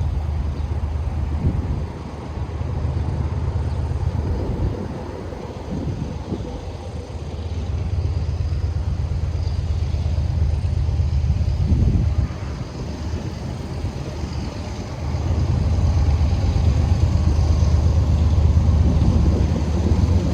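Diesel locomotive engine rumbling low and steady, its level dipping and rising, and loudest over the last few seconds.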